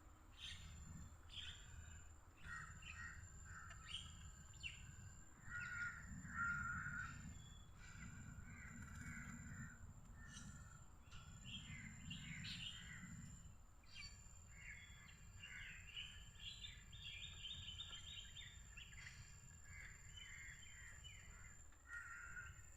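Small birds chirping and calling repeatedly, faint, with a quick run of rapid repeated notes about two-thirds of the way through.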